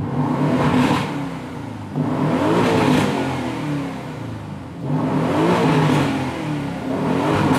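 Aston Martin DB11 V8's Mercedes-AMG 4.0-litre twin-turbo V8 revved several times at a standstill in Sport Plus mode, the engine and exhaust note rising and falling with each blip of the throttle.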